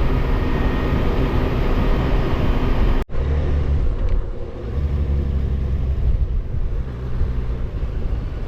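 Kawasaki Versys motorcycle riding at road speed: engine hum under wind rush. About three seconds in the sound cuts out for an instant, then carries on with a deeper, duller drone and less wind hiss.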